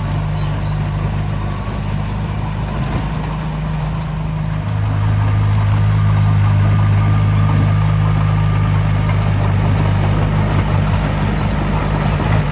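Diesel engine of a bulldozer or dump truck running steadily, growing louder about five seconds in, with a few clicks near the end.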